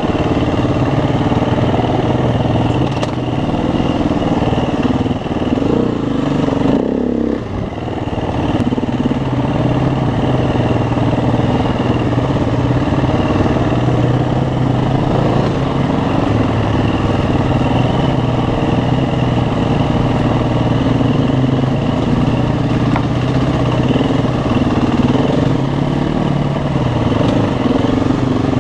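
Dirt bike engine running steadily, its note wavering with the throttle, with a brief drop in level about seven seconds in.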